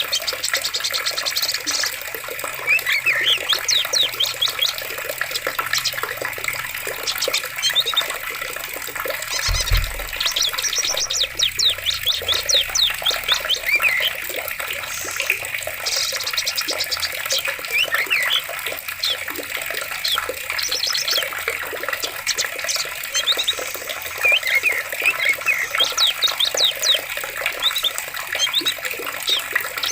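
Flowing water with many small birds chirping in quick repeated notes over it. A single low thump sounds about a third of the way through.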